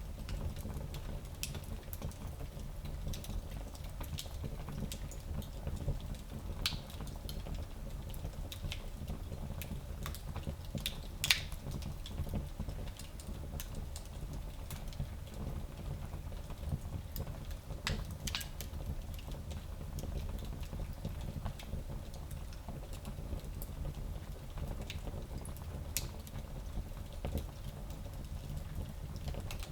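Small wood fire crackling, with scattered sharp pops over a low steady rumble; the loudest pop comes about eleven seconds in.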